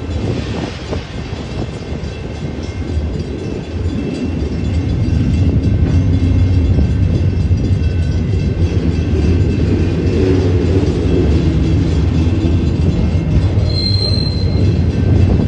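Autorack freight cars of a Union Pacific train rolling past, a steady loud rumble of wheels on rail. A brief high squeal rises out of it near the end.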